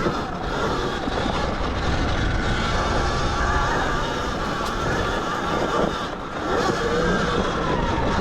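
Zero XB electric dirt bike being ridden on a soft sand trail: a steady rush of wind and tyre noise, with a faint motor whine that rises and falls as the throttle changes.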